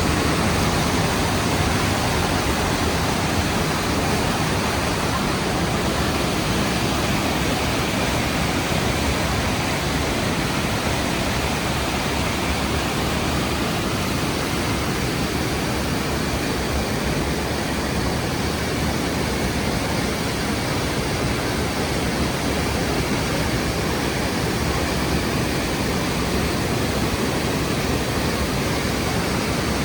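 Rhine Falls, a large waterfall, pouring as a steady, even rush of water noise with no breaks.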